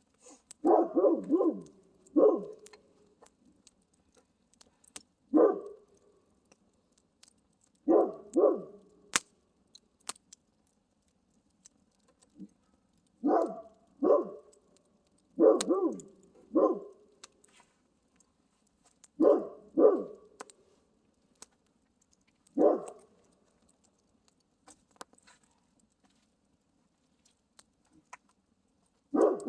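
A dog barking in short bursts, often two or three barks close together, with pauses of a few seconds between groups. Faint sharp crackles run between the barks.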